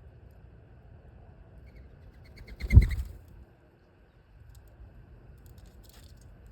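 A bird flapping off close to the microphone: a quick run of wingbeats that builds to a loud low flutter a little under three seconds in, then a faint rustle near the end.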